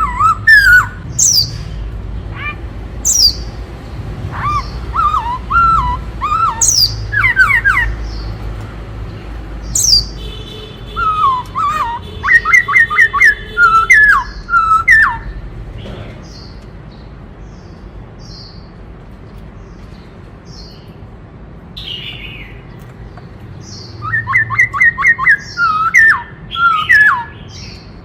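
Black-throated laughingthrush singing: loud whistled phrases that slide up and down, mixed with high chirps. Quick runs of rapidly repeated notes come about twelve seconds in and again near the end, with a quieter stretch of faint high chirps between them.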